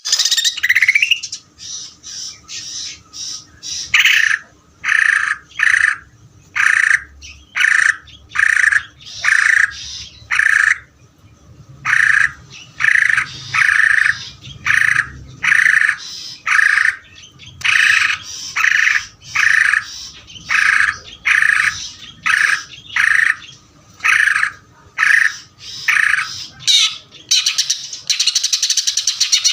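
Green leafbird (cucak ijo) in continuous full song: a long run of short, loud, harsh notes at roughly one and a half per second. Near the end the song breaks into a fast rattling trill.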